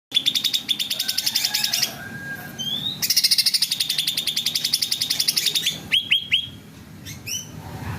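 Cucak ranting bird in full song: two long runs of fast, evenly repeated chattering notes, broken by short rising whistles, three of them in quick succession about six seconds in.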